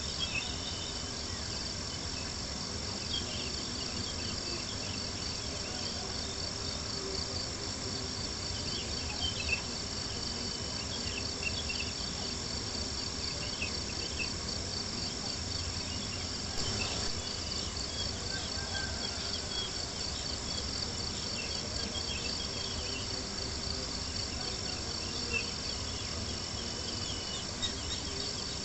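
A night chorus of crickets chirping in a steady, high, pulsing trill, with a few faint pops from a crackling campfire scattered through it.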